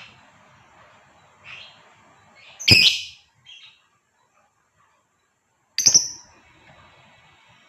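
Female lovebird giving a few separate shrill, sharp calls: a faint one, two loud ones about three seconds apart, and a short one between.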